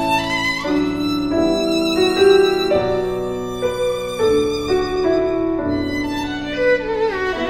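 Background music: a violin playing a slow melody of held notes with vibrato.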